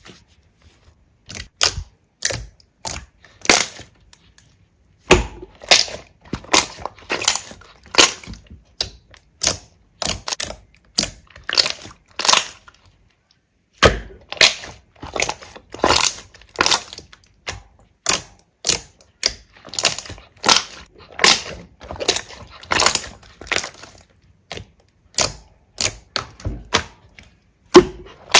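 Slime being squeezed and pressed by hand, giving quick runs of crackling pops and clicks that stop briefly twice before starting again.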